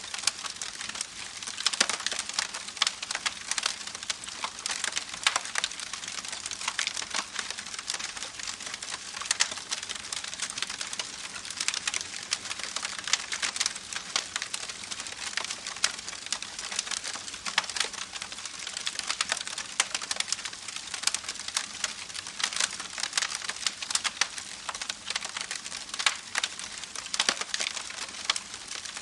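Campfire crackling: a steady stream of irregular snaps and pops over a soft hiss of burning wood.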